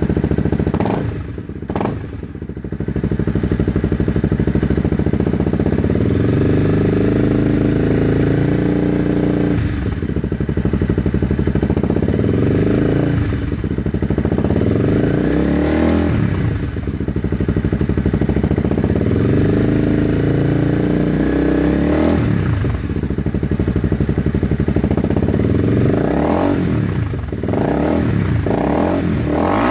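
Honda CBR250R's single-cylinder engine revving. The pitch climbs several times and drops back each time, with a few quick blips of the throttle near the end.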